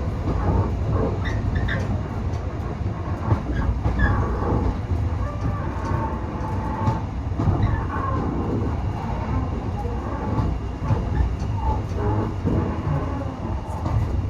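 Heritage railway train running along the line, heard as a passenger rides it: a steady low rumble with scattered clicks and knocks from the wheels on the track.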